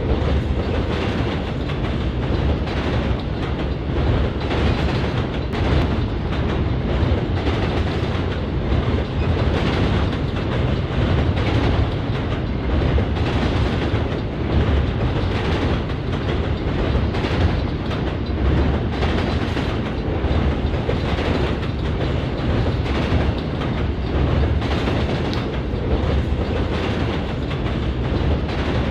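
Norfolk Southern freight train rolling past, with a steady low rumble and the rapid clickety-clack of its cars' wheels over the rail joints.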